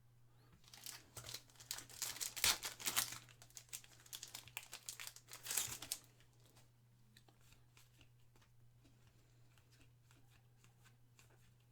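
Foil trading-card pack wrapper being torn open and crinkled for about five seconds, then only faint light clicks.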